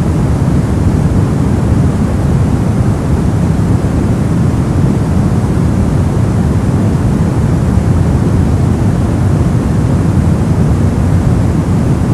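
Brown noise: a steady, deep, even rushing hiss weighted toward the low end, with no tones or events.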